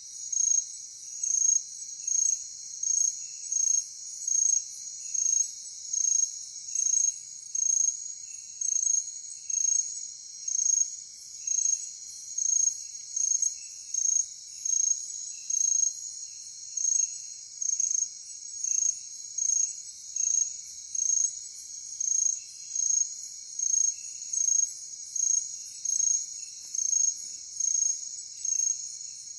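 Night-time insect chorus: a steady high shrill with one loud, high chirp repeating a little more than once a second, and a fainter, lower chirping running alongside.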